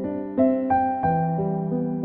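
Solo piano music: a melody of single notes over held lower notes, a new note struck about every third of a second.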